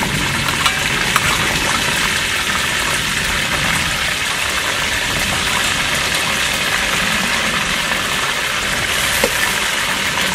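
Chicken drumsticks deep-frying in hot oil in a pan over a wood fire: a steady sizzle with a few small pops.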